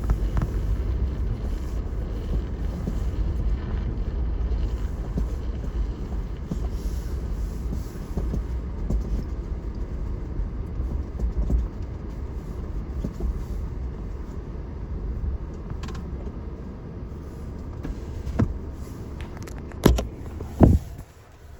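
Car driving, heard from inside the cabin: a steady low rumble of engine and road noise. A few sharp knocks come near the end, then the rumble drops away.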